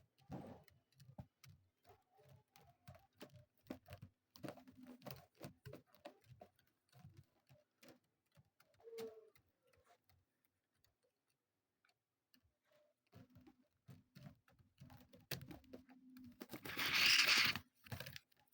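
Partridge moving about in a small space, making irregular light taps and scratches, with one short call about halfway through and a louder rustling flurry near the end.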